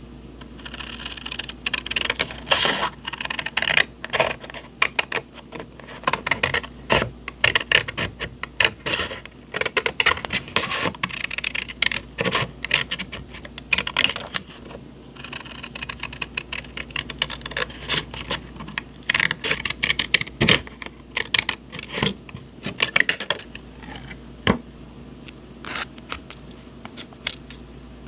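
Hands handling paper journaling supplies, with irregular scratchy rustling, sliding and light tapping of paper, which dies down over the last few seconds.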